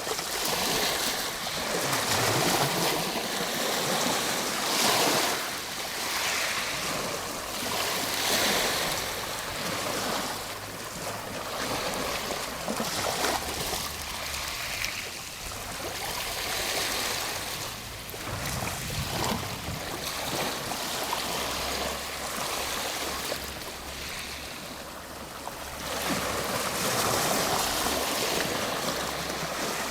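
Ocean waves breaking and washing on a shore, the surf swelling and ebbing in repeated surges every few seconds.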